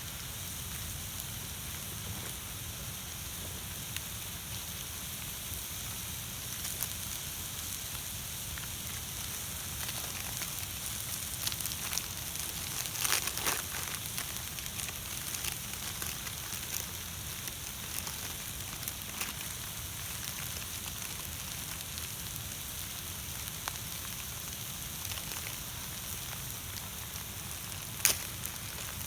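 Wood campfire crackling over a steady hiss, with scattered pops, a burst of sharper crackles about halfway through and one loud pop near the end.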